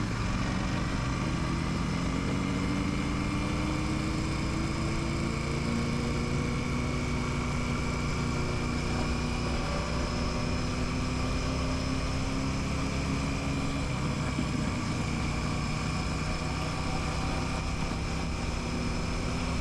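Royal Enfield Classic 650's 648 cc parallel-twin engine running while riding. The engine note rises slightly in the first few seconds, then holds fairly steady over road and wind noise.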